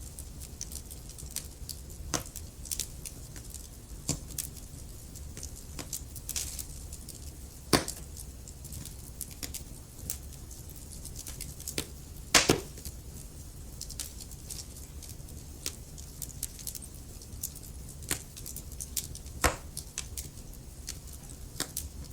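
Wood fire of burning logs crackling, with irregular sharp pops over a low steady rumble of the flames; the loudest pops come about 8 and 12 seconds in.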